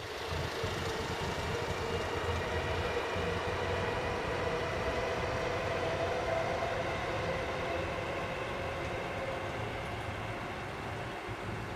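Nanbu Line electric commuter train running along an elevated viaduct: a steady rumble of wheels on rails, with faint steady whining tones through it.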